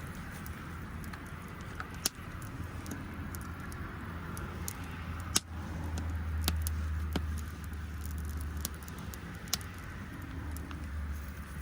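Wood fire crackling, with sharp pops every second or so over a steady low rumble that swells in the middle.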